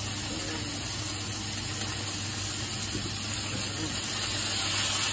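Onions frying in oil in a frying pan, a steady sizzling hiss, getting a little louder about four seconds in as more food goes into the pan.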